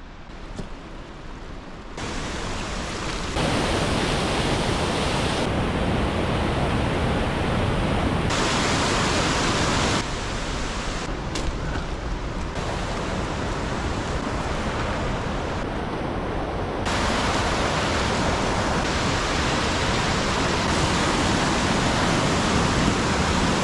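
Steady rushing water, an even hiss and rumble that jumps abruptly in level and brightness several times.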